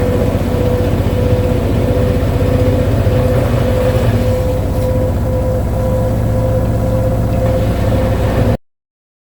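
Midea HealthGuard Smart 13 kg washing machine in its spin, running loud with a steady whine over a heavy vibrating rumble, then cutting off suddenly near the end. The machine is vibrating hard in the final spin, the loud noise the owner means to look into.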